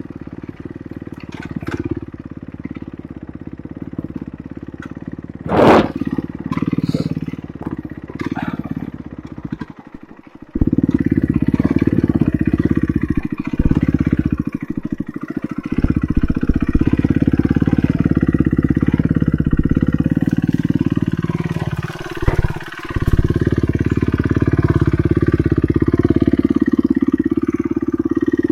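Enduro motorcycle engine running while being ridden, with short dips in the engine sound as the throttle comes off. There is a sharp knock about six seconds in, and the engine drops away briefly around ten seconds before running louder.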